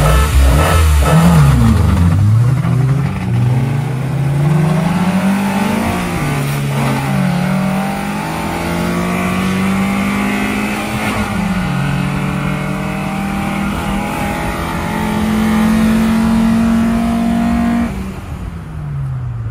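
Car engine at full throttle, accelerating hard through the gears from a standing start: the note climbs, drops at each upshift (about 6 and 12 seconds in), then climbs again. Near the end the throttle is lifted suddenly and the engine note falls away.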